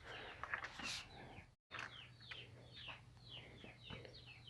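Faint bird chirping: a quick run of short, falling chirps after the sound cuts out for a moment, over a low steady hum.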